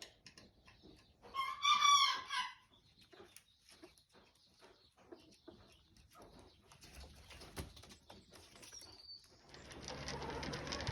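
A bantam rooster crows once, about a second in, a single pitched call of roughly a second and a half. Scattered faint clucks and clicks follow, and a steady hiss comes up near the end.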